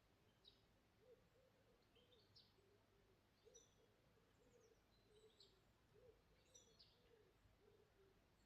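Faint outdoor birdsong: scattered short, high chirps and trills from small birds, over a steady run of short low notes repeating about two or three times a second.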